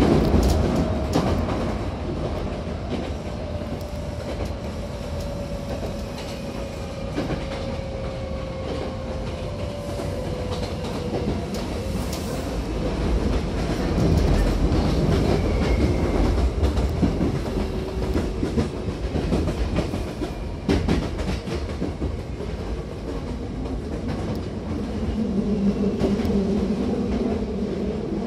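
Hankyu 7000-series electric train running, heard from inside the carriage: a steady rumble with wheels clicking over the rail joints. A whine falls slowly in pitch over the first ten seconds.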